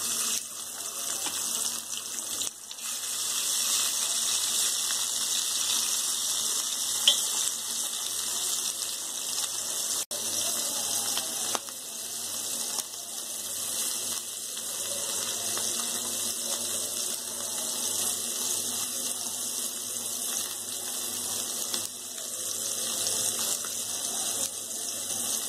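Pieces of dried salted ribbonfish sizzling steadily in hot oil in a frying pan, with a sharp click about seven seconds in.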